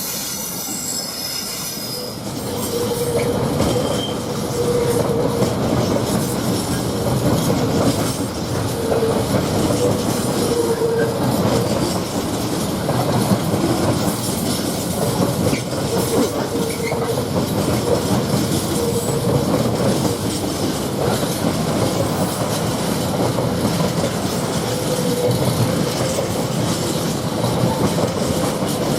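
A Freightliner container train's wagons rolling past, with a continuous rattle and clatter of wheels over rail joints. A wheel squeal comes and goes throughout. The wagons are mostly empty, with hardly anything on them.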